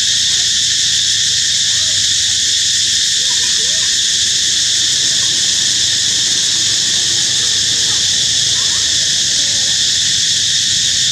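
A loud, steady, high-pitched drone of an outdoor insect chorus, with faint short chirping calls scattered underneath.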